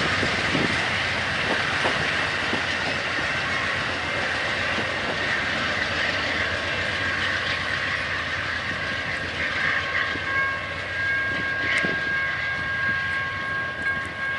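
A train rolling past, its cars clattering steadily over the rails. About ten seconds in, a thin steady high tone joins the rumble and holds to the end.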